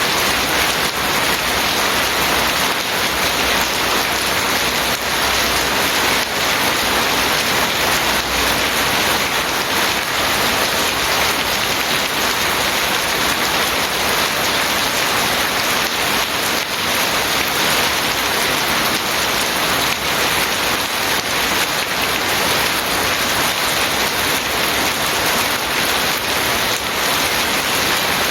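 Steady heavy rain falling and pattering on surfaces, a dense even hiss with scattered drop impacts.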